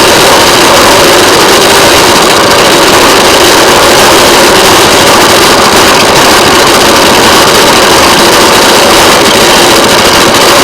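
Railway motorcar (speeder) running along the track: its small engine and the rail and wheel noise make one loud, steady din.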